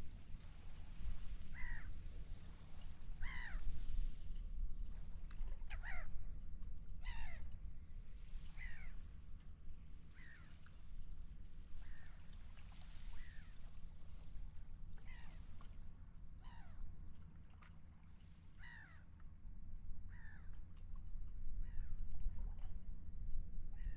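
Seagulls calling repeatedly, short harsh falling calls every second or two, over a steady low rumble.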